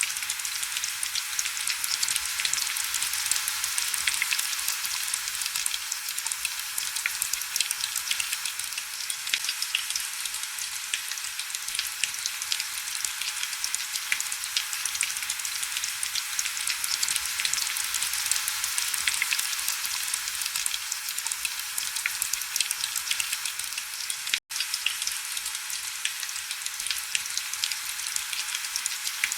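Heavy rain falling steadily: a dense hiss of many fine drop ticks with little low rumble. The sound cuts out for an instant about five seconds before the end.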